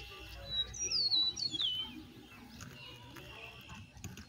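A bird calling: a few clear, high whistled notes sliding down in pitch about half a second to two seconds in, over faint outdoor background noise.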